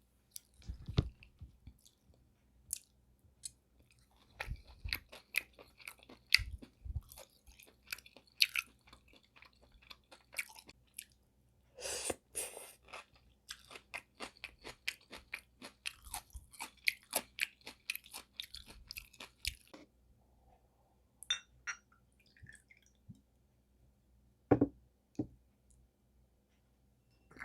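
Close-miked mouth eating spicy sea snail bibim noodles: many quick, wet smacking and clicking chewing sounds, densest through the middle, with a longer wet burst about twelve seconds in. It thins to a few scattered smacks near the end.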